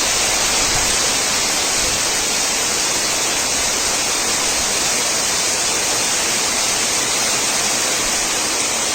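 Heavy cyclone rain and strong wind, a loud steady hiss with a flickering low rumble underneath.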